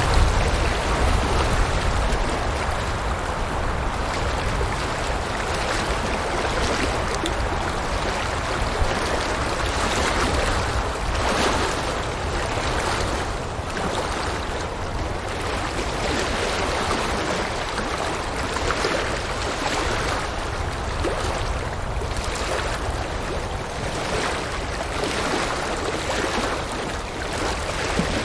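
River water rushing steadily, with a low rumble that is strongest in the first second or so.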